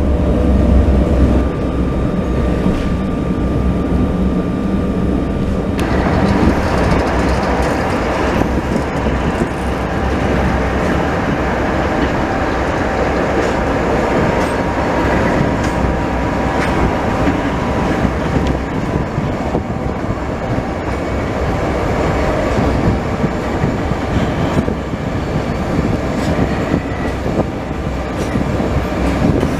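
Passenger train of Bz coaches hauled by an M47 diesel locomotive running along the line, heard from a coach window: a steady rumble of wheels on rail with some clatter. The noise becomes brighter and fuller about six seconds in.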